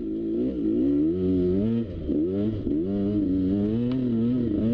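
Two-stroke dirt bike engine revving up and down repeatedly, with a brief drop about two seconds in.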